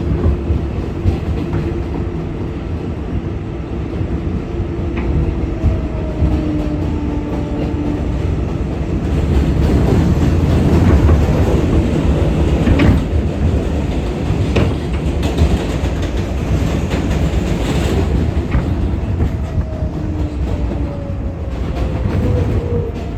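R188 subway car running at speed, heard from inside the car: a steady rumble with wheels clicking over rail joints and faint whining tones sliding down in pitch. The noise grows louder and brighter from about nine seconds in to about eighteen seconds in.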